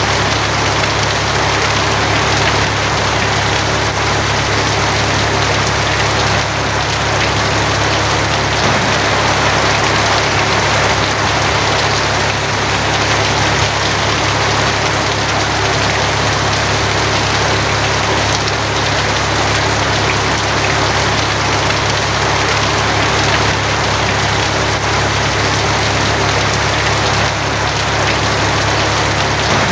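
Steady heavy rain drumming on a tin roof, with a constant low hum beneath it.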